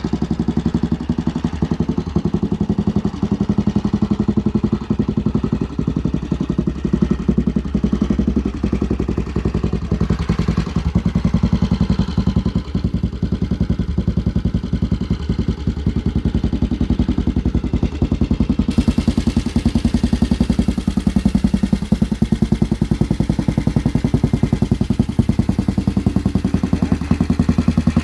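1948 Garden Gate Manx Norton's single-cylinder overhead-cam engine running steadily just after a cold start, a fast, even train of firing pulses.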